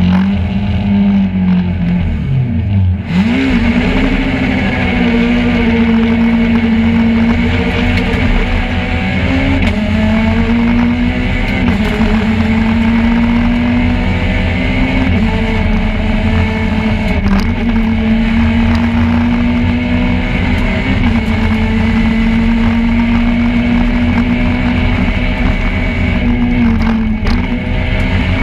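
Peugeot 208 R2 rally car's four-cylinder engine, heard from inside the cabin, running hard on a stage. The pitch holds high and dips briefly and recovers every few seconds as it changes gear.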